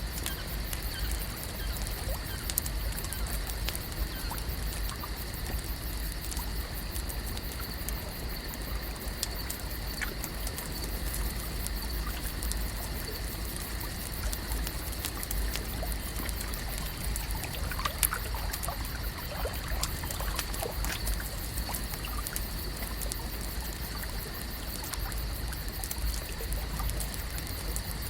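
Lake ambience: water gently trickling and lapping over a steady low rumble and a constant high hiss, with scattered small ticks and a brief cluster of them about two-thirds of the way through.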